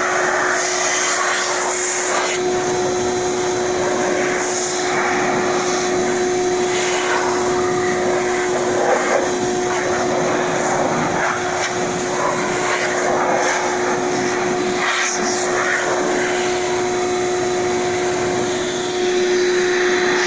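Vacuum run in reverse as a blower, blowing loose dust off a motorcycle. Its motor whines at a steady pitch over a rushing air blast that swells and fades as the nozzle is moved around.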